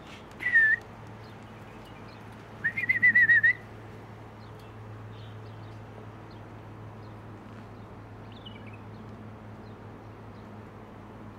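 A person whistling: a short dipping whistle about half a second in, then a longer warbling whistle at about three seconds, over a steady low hum.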